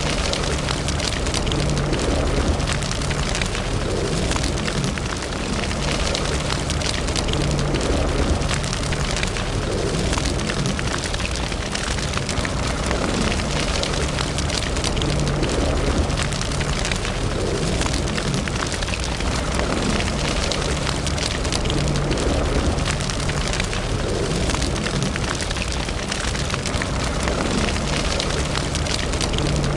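Wood fire burning in a fireplace: a steady rush with constant dense crackling and popping.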